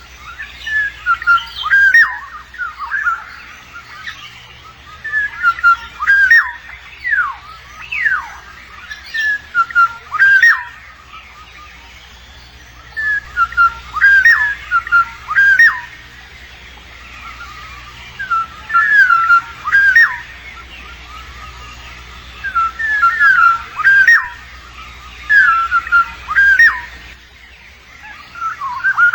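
Black-naped oriole calling: short repeated phrases of clear fluty whistles with quick swoops in pitch, coming in bursts of a second or two with brief pauses between them.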